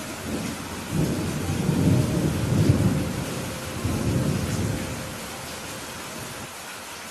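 Steady rain with a roll of thunder: a low rumble builds about a second in, swells twice and fades away by about five seconds, leaving the rain hiss.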